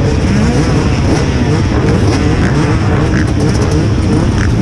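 Several MX2 motocross bike engines revving at once, their pitches rising and falling over one another.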